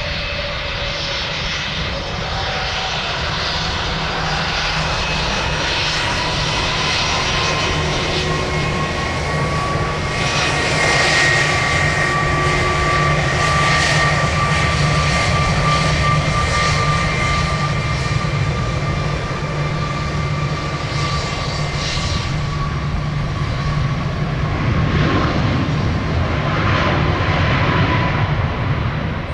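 Airliner jet engines running close by: a steady deep rumble under a high whine that rises slightly and holds for much of the time, growing louder partway through.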